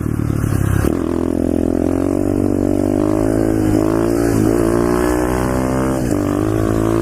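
Pit bike's small single-cylinder engine running at steady revs under way, its pitch dipping briefly three times, about halfway in, a second later and near the end.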